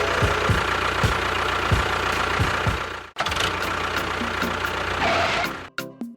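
An engine running at idle with an uneven low knocking beat. It cuts out abruptly for a moment about three seconds in, then resumes, and stops shortly before the end.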